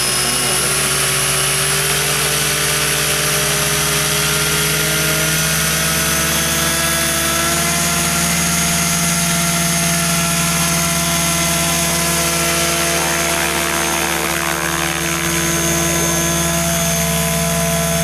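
Radio-controlled model helicopter running steadily in flight, its rotor and motor making a constant hum with a high whine over it, the pitch drifting slowly.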